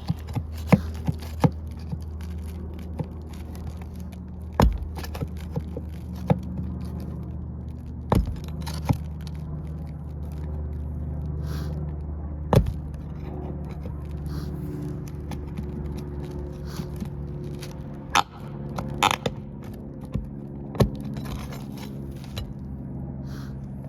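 A tool scraping and working under brittle roof shingles to find the nails, with scattered sharp clicks and knocks, over a steady low hum.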